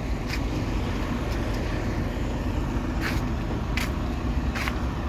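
Steady low rumble of a vehicle engine running, with a few short sharp sounds over it.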